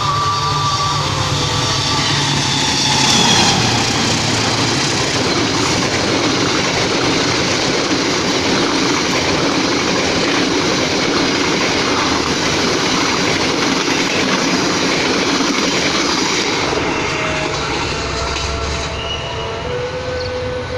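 Train passing through a station: a horn chord that cuts off about a second in, then a loud, steady rush of wheels on rails that eases off near the end.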